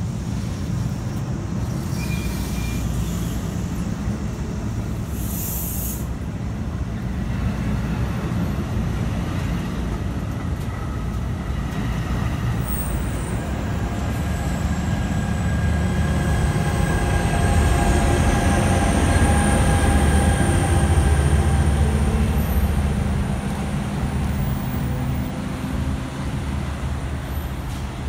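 NJ Transit commuter train of bilevel coaches rolling along the rails with a steady rumble, with two short hisses of air a few seconds in. From about the middle a thin whine joins the rumble, which swells and then eases off near the end.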